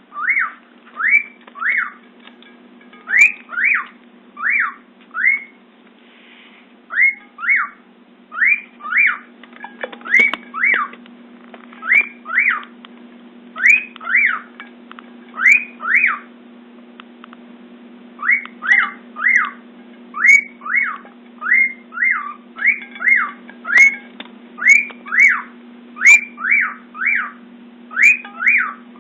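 Male cockatiel singing a courtship song: short whistled notes that sweep up and down, mostly in pairs, repeated about once a second. A low steady hum runs underneath.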